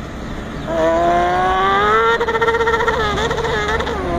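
A man imitating a motorcycle with his voice. A buzzing engine note breaks off, comes back under a second later and climbs steadily in pitch as if accelerating, then turns shaky and warbling in the last second or two.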